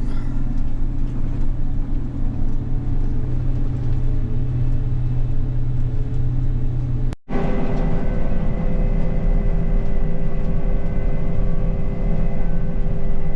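Engine of a large farm harvesting machine running steadily under way. About seven seconds in the sound breaks off abruptly and comes back as a different steady engine drone with clearer, higher tones in it.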